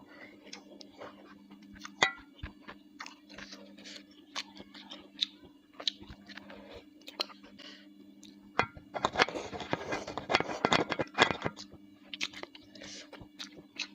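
Close-miked chewing of bakso meatball soup: scattered soft wet mouth clicks, with a louder, dense stretch of chewing from about nine to eleven and a half seconds in.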